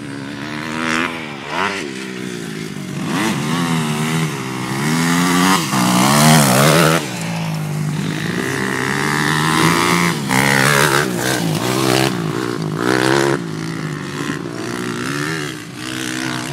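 Motocross dirt bike engines revving, pitch rising and falling over and over as the bikes accelerate and back off around the track, loudest about six to seven seconds in.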